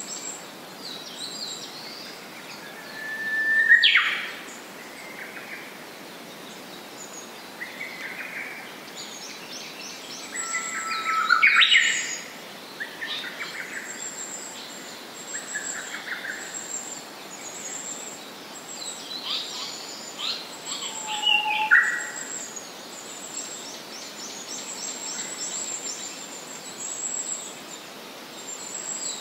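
Japanese paradise flycatcher singing: three loud phrases several seconds apart, each a short held whistle ending in a quick sweeping note. Other birds chirp fainter and higher throughout.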